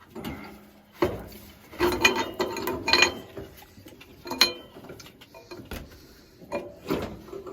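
Steel pipe fittings and tools clinking and clanking as they are handled, a series of separate metal knocks, some with a brief ring.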